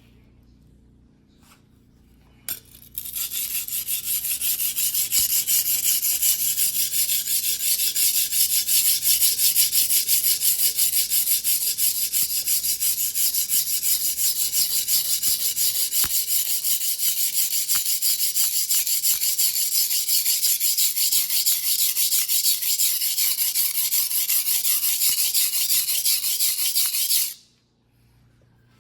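Steel blade of a Mizuno Tanrenjo white-steel 270 mm fuguhiki (single-bevel sashimi knife) being stroked back and forth on a wet whetstone by hand in steady, rapid strokes, giving an even gritty scraping. It starts about two and a half seconds in after a light knock and stops abruptly near the end.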